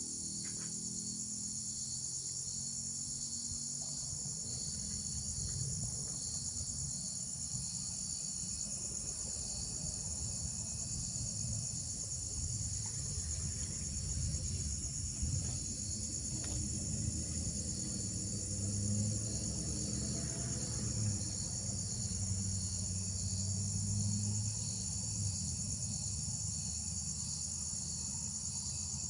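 A steady, high-pitched chorus of insects, with the low buzzing hum of a valley carpenter bee's wings swelling and fading as it flies and works the flowers, loudest in the second half.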